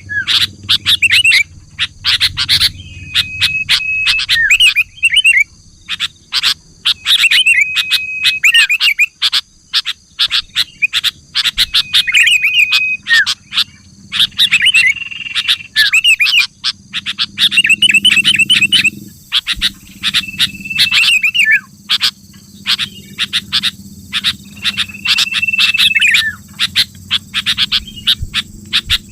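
Sooty-headed bulbul (kutilang) singing over and over: bursts of quick chirps around a short held whistled note, a phrase every two to three seconds.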